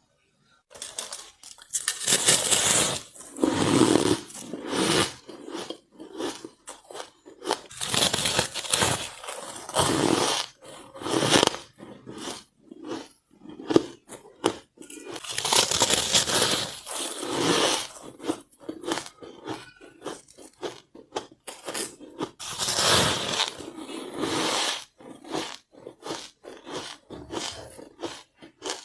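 Close-miked biting and chewing of white ice: four spells of loud crunching a few seconds apart, with sharp cracks and quieter crackling chewing between them.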